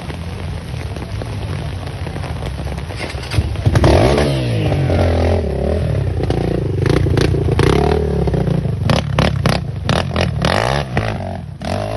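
A motor vehicle engine revving, its pitch rising and falling as it passes close by about four seconds in and again near the end. In between come rapid scraping and clattering noises.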